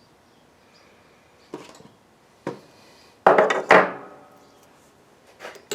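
Hand handling of metal parts and tools at a lathe, with the lathe not running: a couple of light knocks, then a louder metallic clatter with a brief ring a little past the middle, and small clicks near the end.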